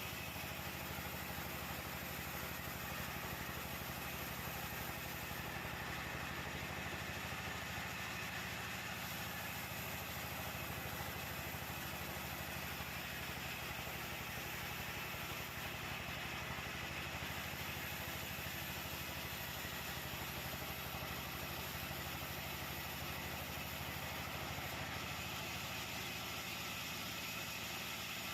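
Sawmill machinery running steadily at an even pitch, with no rise or fall in level.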